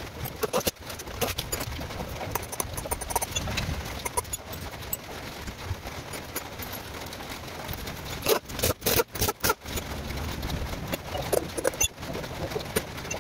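A bird cooing now and then over steady background noise, with a quick run of several sharp knocks or clicks about eight to nine and a half seconds in.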